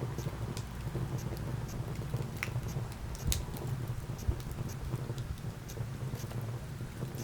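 Burning wood fire crackling: scattered sharp pops and snaps over a low steady rumble of the flames, with one louder pop a little past three seconds in.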